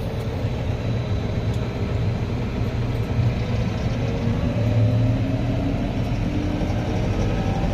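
Vehicle engine and road noise heard from inside the cab, a steady low hum with the engine's pitch rising slowly as it picks up speed.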